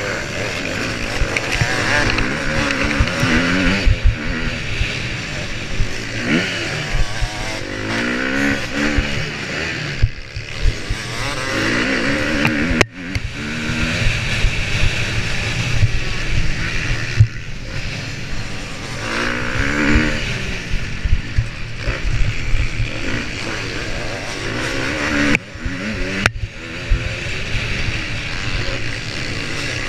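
Motocross bike engine revving hard under load, its pitch repeatedly climbing and falling as the throttle is worked, with brief cuts about 13 and 26 seconds in.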